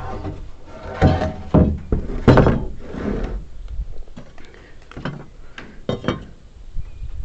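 Wooden knocks and thuds at irregular intervals as timber pieces are handled and set against one another, the loudest about two and a half seconds in and two more close together near the end.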